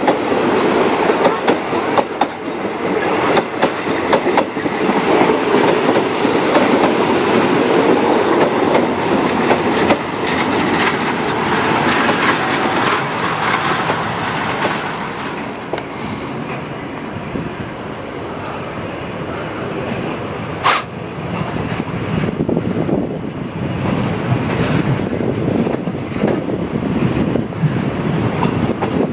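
Local passenger train running, heard from an open window of its last carriage: wheels clatter over the rail joints over a steady rush of wheel and track noise. One sharp click stands out about two-thirds of the way through.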